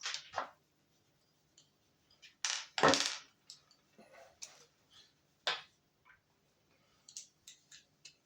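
Scattered clicks and knocks from handling and fitting parts of a truck's instrument cluster during reassembly, the loudest a knock about three seconds in.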